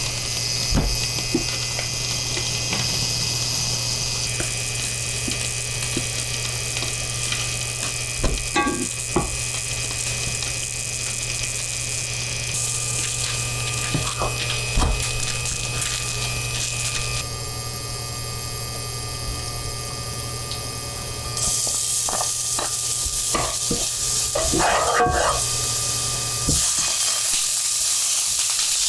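Butter sizzling as bread toasts in a frying pan, with a wooden spatula now and then scraping and knocking against the pan, over a steady low hum. Near the end, chicken breast sizzles as it fries with garlic.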